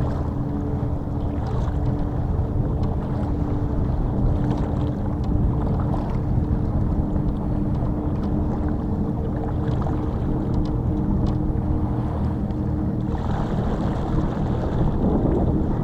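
A boat's motor running steadily at constant speed, a low drone with a steady hum, and a rush of hiss coming in near the end.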